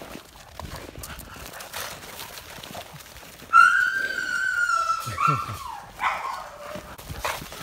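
American Bully dogs play-fighting: about three and a half seconds in, a dog gives a long, high-pitched whine lasting about a second and a half, then two shorter yelps that slide down in pitch. Faint scuffling before it.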